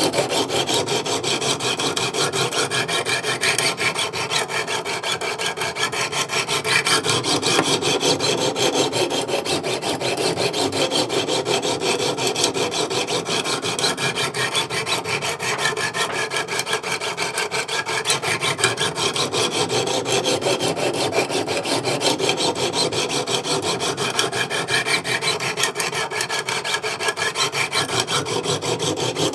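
Coarse 200-grit Wicked Edge stones rasping steadily along the edge of an S35VN steel knife blade in repeated sharpening strokes, with the scraping swelling and easing with each pass. The knife is being ground at a 20-degree angle to raise a burr on a dull edge.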